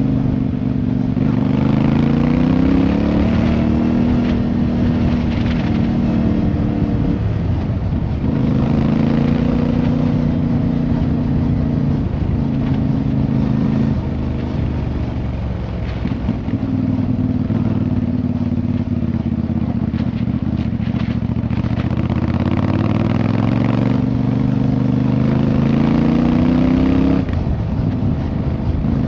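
Motorcycle engine running under way and pulling through the gears: its pitch climbs, dips at each shift, then climbs again, several times over.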